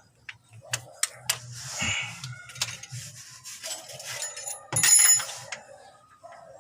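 Clicks and clinks of metal tools and parts being handled, with a louder metallic clank about five seconds in that rings briefly.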